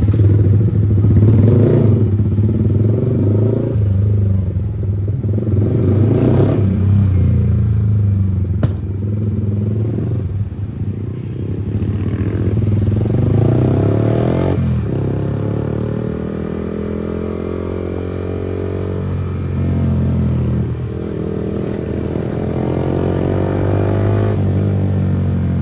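Kawasaki ZX-10R inline-four engine running while riding. The engine note holds, drops sharply about halfway through, then climbs steadily as the revs rise again.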